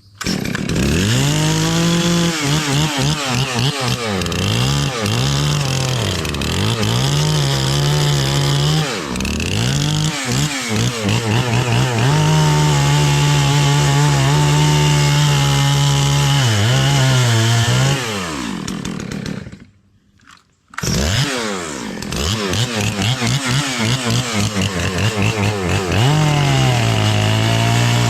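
Chainsaw engine revving hard, its pitch dipping and climbing back several times, then held at full throttle for several seconds at a stretch. It breaks off for about a second roughly two-thirds of the way through, then comes back at high revs.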